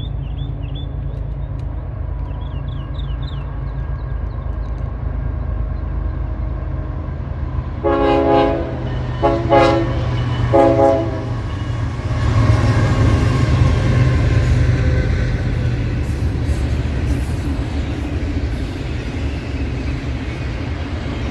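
Freight train led by a GE diesel locomotive, a BNSF AC44C4M rebuilt from a Dash 9, rumbling steadily as it approaches. About eight seconds in it sounds its air horn in three short blasts, and a few seconds later the engine and wheel noise grows louder as the train passes.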